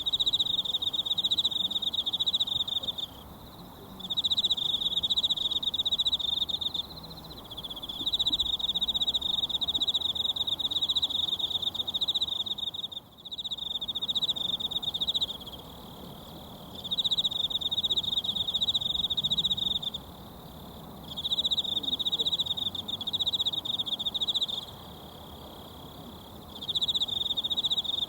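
A high, pulsing insect trill in bouts of a few seconds with short pauses between, over the steady soft babble of a mountain stream.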